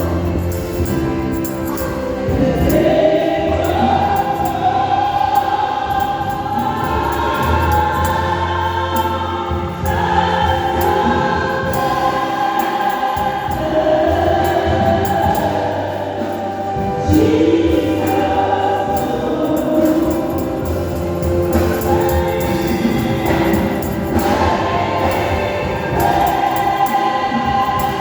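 Church choir singing a gospel song in many voices, over low bass accompaniment.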